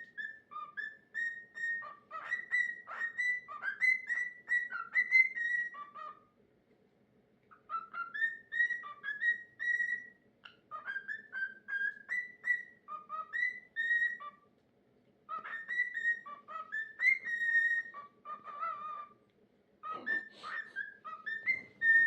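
Male cockatiel whistling his own song: phrases of short whistled notes that jump between a lower and a higher pitch, in four bursts with short pauses between them.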